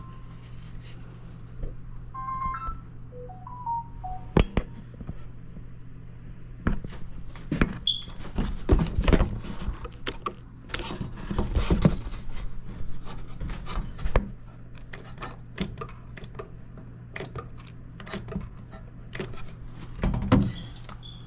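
Repeated knocks and clicks of handling and tapping over a steady low hum, with a few short descending electronic beeps in the first few seconds.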